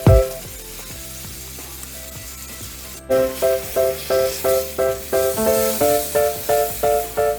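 Pork chops sizzling as they fry in oil in a pan, with background music over it: a repeating plucked melody that is quiet for the first few seconds and comes back loud about three seconds in.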